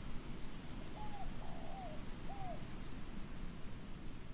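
A bird gives three short, rising-then-falling calls in quick succession, starting about a second in, over a steady background hiss.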